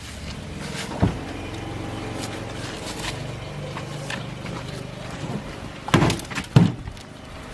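A steady mechanical hum, with a sharp click about a second in and two loud knocks near the end.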